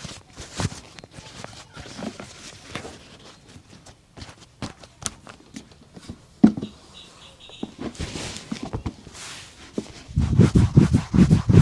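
Shoe-shine work on a boot: scattered taps and clicks and a couple of short brushing sweeps, then near the end fast, loud rubbing strokes, several a second.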